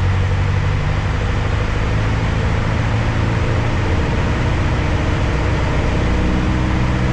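Cabin noise of a Piper Archer in flight: the four-cylinder Lycoming engine and propeller droning steadily at approach power, with rushing air. The engine note shifts slightly about four seconds in.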